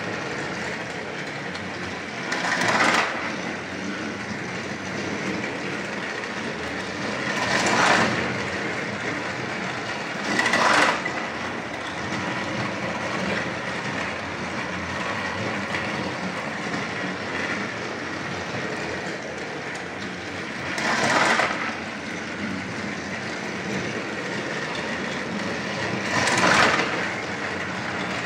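Battery-powered Thomas & Friends Trackmaster toy trains running on plastic track, with a steady whirring rattle. It swells louder five times, briefly each time, at irregular intervals.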